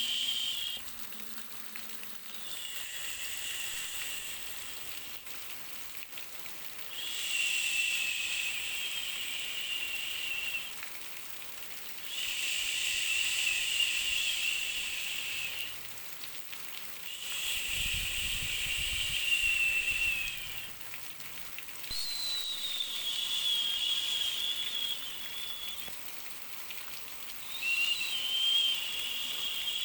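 White-noise track for babies: long hissing sounds with a slightly wavering high pitch, each lasting about three to four seconds and repeating roughly every five seconds, over a fainter steady hiss in between.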